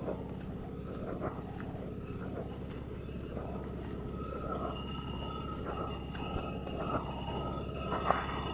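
Indian Railways train running on the track: a steady low rumble with scattered knocks, and faint high steady tones joining about halfway through.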